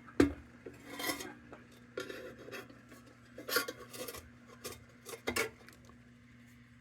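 Intermittent scraping, rasping and light metallic clinks from a Dietz Blizzard lantern's sheet-metal fuel fount as an old burned wick is worked out through its small filler spout. There is a sharp knock just after the start.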